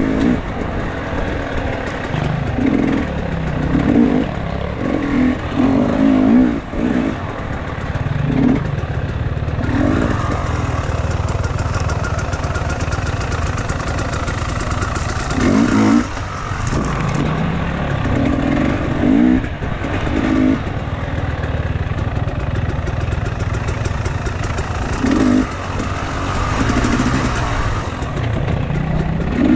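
Enduro motorcycle engine running under load while riding, the revs rising and falling over and over with the throttle.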